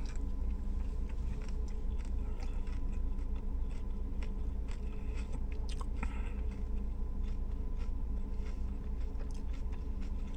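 A person chewing and biting into a toasted Subway B.M.T. sandwich, with scattered short crunches and mouth clicks, over a steady low hum.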